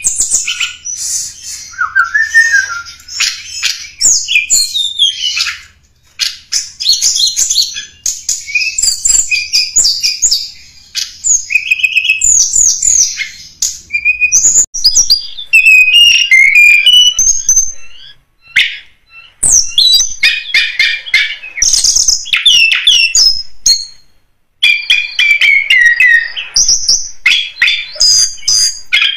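Tledekan gunung songbird singing: rapid runs of high chirps and quick whistled trills, broken by three short pauses. It is a lure song, used to draw wild birds of its kind.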